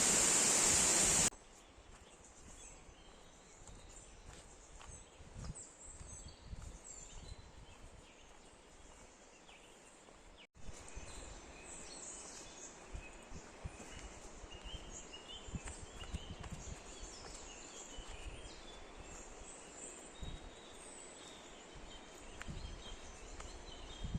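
Rushing water for about a second, cutting off suddenly, then quiet rainforest ambience with birds chirping faintly and soft low bumps.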